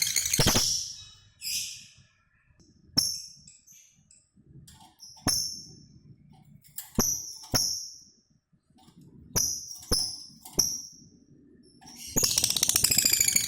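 Lovebird giving short, sharp high chirps one at a time, a second or two apart. Near the end it breaks into a long, fast chattering trill, the ngekek song that lovebird keepers use as a bait sound to set other birds singing.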